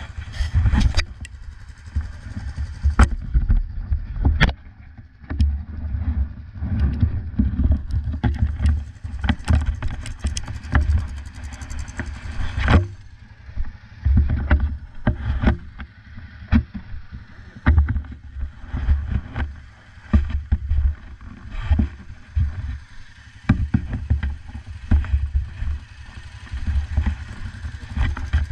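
Yamaha Blaster's single-cylinder two-stroke ATV engine running as the quad is ridden over a rough trail, with frequent sharp knocks and rattles from bumps and uneven, surging low rumble from wind on the microphone.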